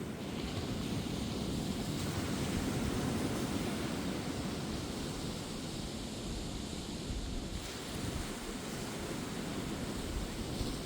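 Ocean surf breaking on a beach: a steady wash of waves that swells over the first few seconds and eases after about seven seconds, with some wind on the microphone.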